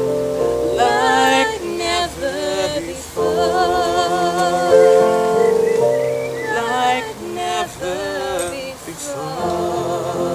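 A woman singing in phrases with vibrato, with short gaps between them, over held accompaniment chords.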